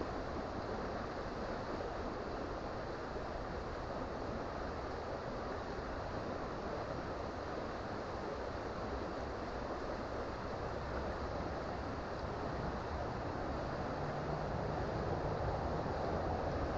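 Creek water flowing over rocks: a steady, even rushing that gets a little louder near the end.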